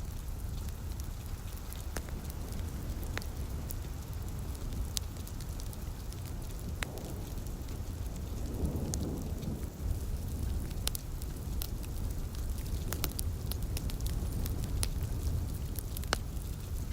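Wood fire crackling with irregular sharp pops over a steady bed of rain, and a low rumble of distant thunder swelling about halfway through.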